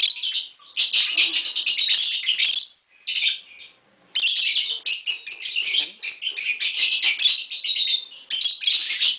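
Several pet lovebirds chirping in rapid, high-pitched chatter, with a short lull about three seconds in before the chatter picks up again.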